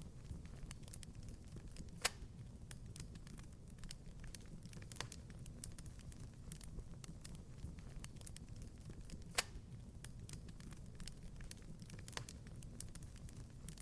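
Wood fire crackling in a fireplace: a steady scatter of small snaps over a low steady rumble, with two louder pops, one about two seconds in and another about nine seconds in.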